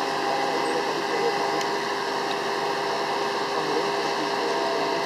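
Steady mechanical hum and hiss with several constant tones: the rotator wrecker's diesel engine running.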